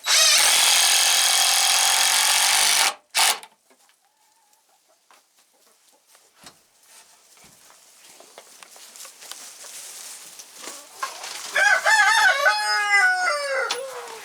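A power drill runs for about three seconds and then briefly once more, driving a screw into the roost. Near the end a chicken gives a loud call of several notes, ending in a long falling note, like a crow.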